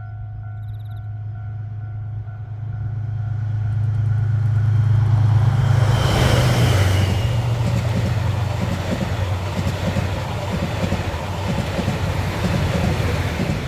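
DF200-7000 diesel-electric locomotive approaching with a steady low engine drone that grows louder and peaks as it passes about six seconds in. After that the 77 series passenger cars roll by with steady wheel-on-rail noise.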